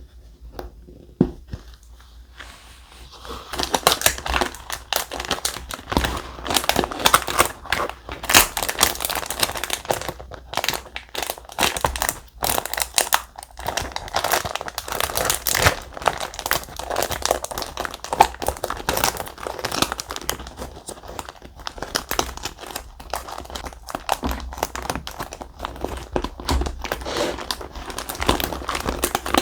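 Thick, stiff paper being handled at close range: dense crinkling and rustling with small crackles and occasional tearing, starting about three seconds in after a few soft touches.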